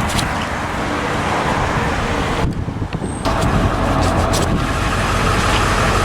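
An engine idling steadily under a haze of noise. The upper noise drops out briefly about two and a half seconds in.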